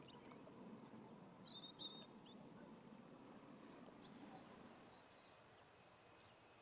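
Near silence: faint outdoor ambience with a few short, high bird chirps in the first two seconds and again faintly about four seconds in.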